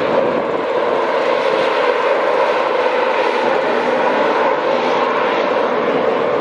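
A train running at the station: steady, loud running noise with a constant drone, unbroken throughout.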